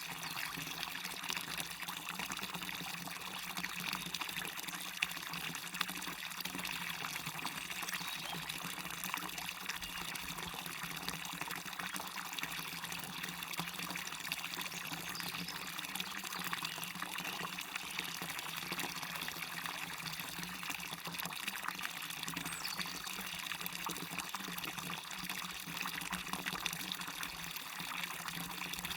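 Small waterfall splashing and river water running, a steady even rush of water.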